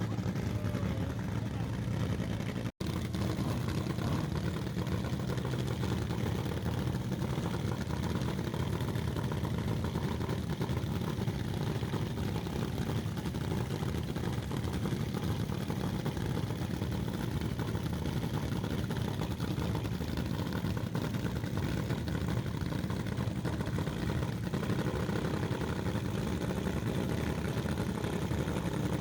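An engine running steadily at a constant speed, with a brief dropout about three seconds in.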